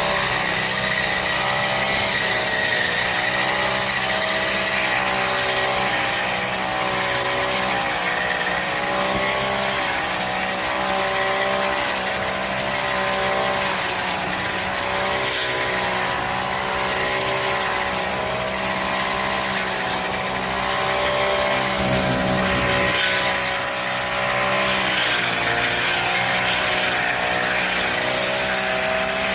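Honda GX35 brush cutter's small four-stroke engine running steadily at speed, its pitch wavering slightly up and down.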